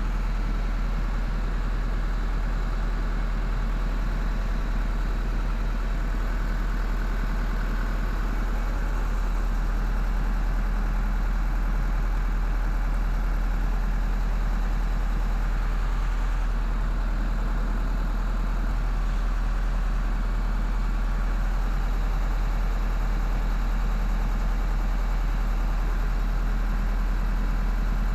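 An engine idling steadily, an even low rumble that does not change.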